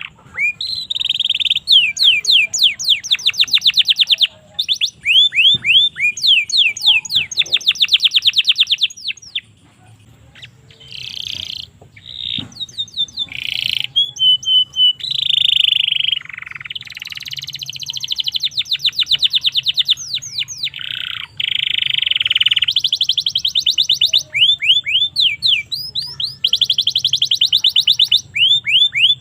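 Domestic canary singing a long, fast song of rapid repeated trills and rolling phrases, high-pitched, with a brief quieter passage near the middle.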